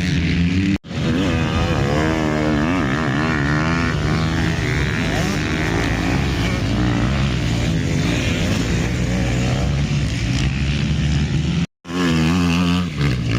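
Motocross bike engines revving up and down on the track, several engine notes rising and falling over one another. The sound cuts out briefly twice, about a second in and near the end.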